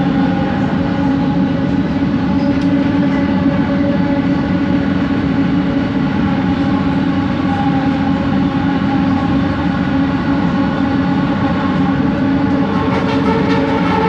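Kelana Jaya Line train's original linear induction motor giving its odd whine, several steady tones over the rumble of the moving car, with a few faint clicks near the end.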